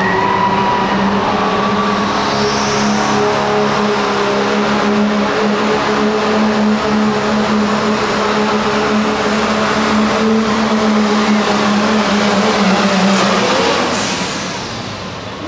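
Diesel pickup truck engine running hard under load on a pull, with a high turbocharger whistle that climbs over the first few seconds and holds. About fourteen seconds in the whistle falls away and the engine sound drops as the throttle is let off.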